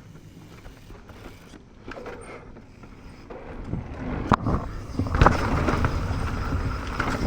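Mountain bike rolling over dirt, growing louder from about three seconds in, with a sharp click about four seconds in and a heavy thud about five seconds in.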